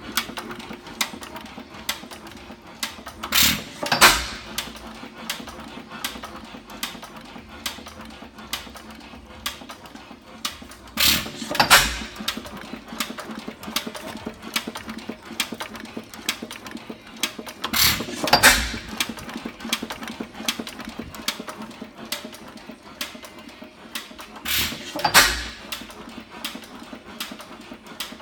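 4 hp Fairbanks-Morse Type H hit-and-miss engine running: it fires a pair of power strokes about every seven seconds, four times here, and coasts between firings with a steady light clicking.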